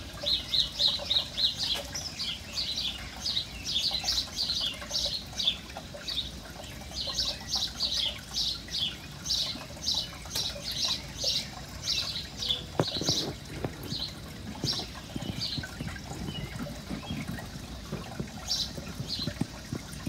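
A small bird chirping over and over in short, high chirps, two or three a second, with a couple of brief pauses.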